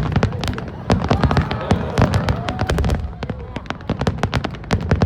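Fireworks display: a dense stream of sharp crackling pops over deep booms from aerial shells bursting, many in quick succession.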